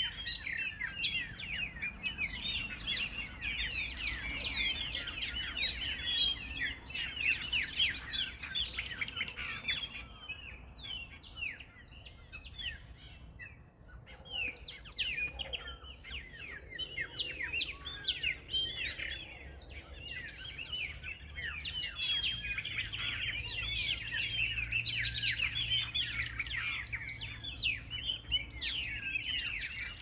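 Many small birds chirping in a dense, overlapping chorus of quick high notes, thinning out for a few seconds near the middle.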